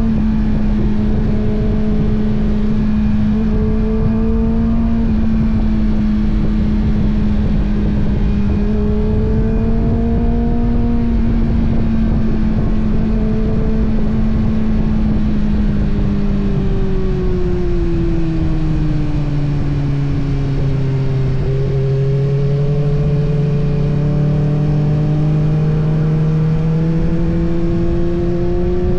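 Kawasaki ZX-6R's 636 cc inline-four engine running under way at steady revs. About two-thirds of the way through the revs drop, then climb gently again near the end.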